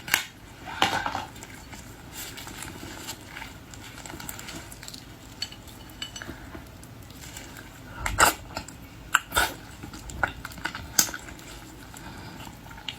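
Scattered sharp clicks and clinks of tableware and seafood shells being handled during eating, with a few louder knocks in the second half.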